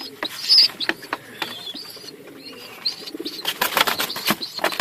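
Domestic pigeons cooing, with short high squeaky chirps. About three and a half seconds in comes a brief flurry of sharp rustling and clatter.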